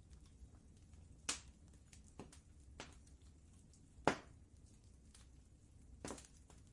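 Wood fire crackling in a fireplace: about five sharp pops and snaps, the loudest about a second and about four seconds in, over a low steady rumble.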